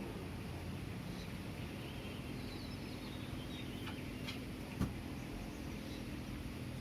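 Pre-dawn city neighbourhood ambience: a steady low rumble of distant traffic with a faint low hum, and birds chirping faintly in the middle. A few small clicks and one sharper knock come about five seconds in.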